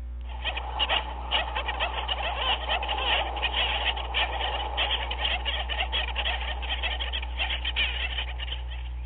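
A penguin colony calling: a dense chorus of many overlapping short calls and squawks over a steady low hum.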